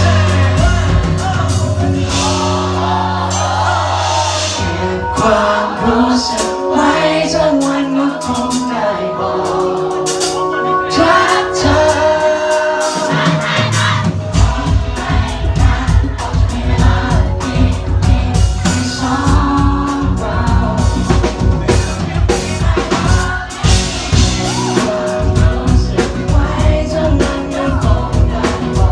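Live pop music: a male lead voice singing over a band. Held bass and keyboard notes carry the first half, then the drums and bass come in fully about halfway through.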